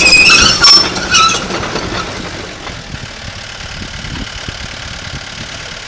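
Komatsu D37PX-21 crawler dozer: loud, high-pitched metal squeals over the first second or so, then its diesel engine running steadily with irregular clanking.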